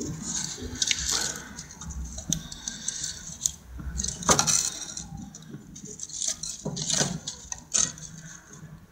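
Irregular clattering, rattling and rustling of objects being handled, with a few sharper knocks.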